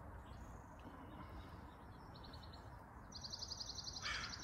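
Faint outdoor background with a small bird's rapid, high trill, heard briefly around the middle and again near the end. A crow starts cawing just before the end.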